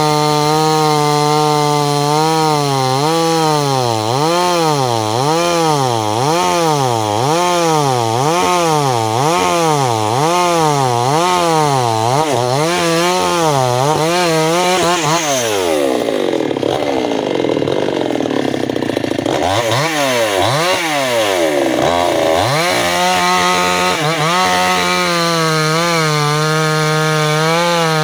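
Chainsaw cutting into a tree trunk, its engine pitch dipping and rising about once a second as the cut loads it. About halfway the revs fall away and waver for several seconds, then the saw runs steady at high revs again.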